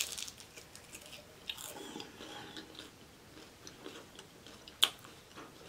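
Chewing a mouthful of crispy fried cheeseburger egg roll close to the microphone: soft crunches and mouth sounds, with one sharp click a little before five seconds in.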